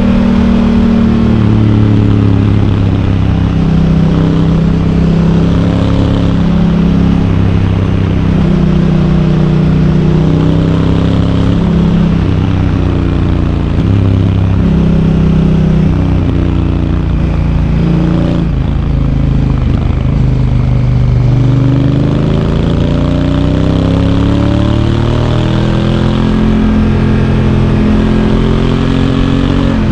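Honda Africa Twin's parallel-twin engine running under way, its pitch repeatedly climbing and then dropping back in steps as the DCT gearbox shifts gears. About two-thirds of the way through the revs fall away and then climb steadily again.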